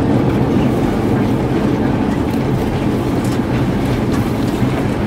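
Airbus A350-900 cabin noise on approach to landing: a steady, loud rumble of engines and airflow heard from inside the passenger cabin.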